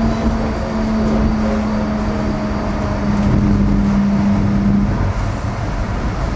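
Ride noise inside a South Shore Line electric commuter train car: a steady rumble of the moving train, with a low hum that sinks slightly in pitch and stops about five seconds in.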